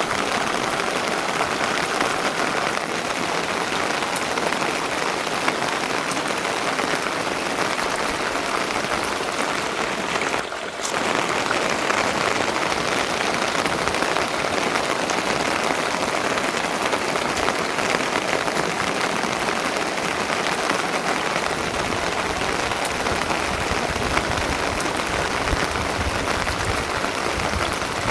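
Steady rain falling, an even hiss of drops with a brief dip about a third of the way through and a deeper low rumble joining about two-thirds of the way in.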